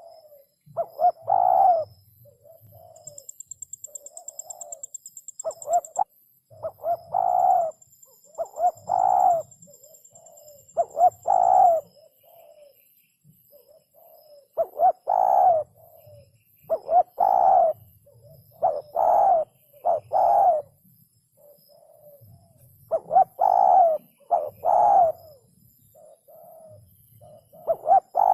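Spotted dove cooing, repeating its short phrase of a few low, rounded notes about every two seconds. A high, rapidly pulsing buzz sounds for a few seconds near the start.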